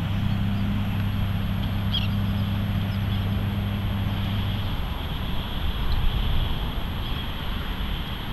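Outdoor wind and ambient noise at the shore, with a steady low hum underneath that stops about halfway through. A faint short bird chirp comes about two seconds in.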